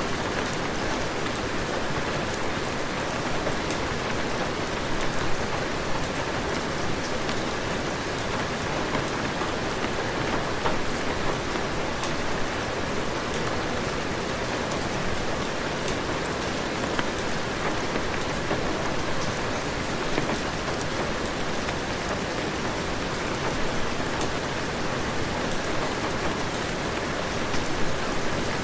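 Heavy rain falling steadily, a dense even hiss with scattered sharp drop ticks and small taps throughout.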